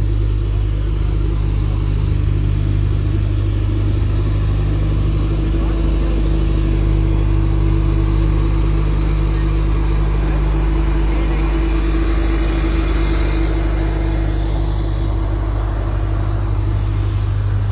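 A steady low engine drone with a constant hum that does not change.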